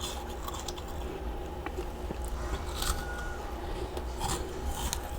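Freezer frost being bitten and chewed: several separate crunches and scrapes, spaced irregularly.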